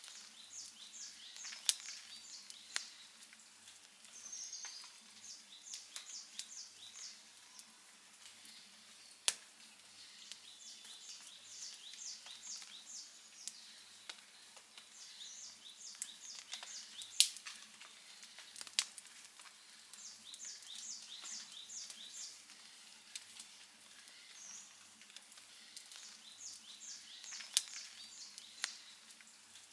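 Outdoor campfire crackling, with scattered sharp pops, a few of them much louder than the rest. A high chirping call repeats in the background about every five seconds.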